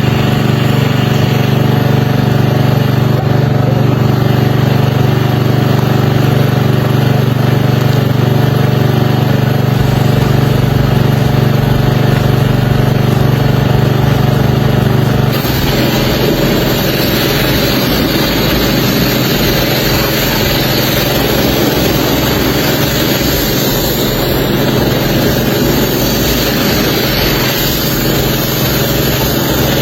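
An engine running steadily. About halfway through, the sound changes abruptly to a rougher, noisier running.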